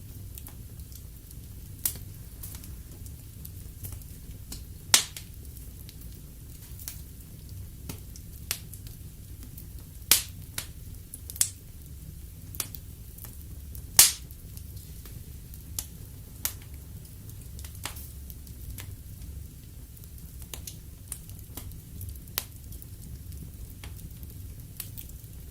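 Wood fire burning in a fireplace: a low steady rumble of flames with irregular sharp crackles and pops of the burning logs, the loudest pops about 5, 10 and 14 seconds in.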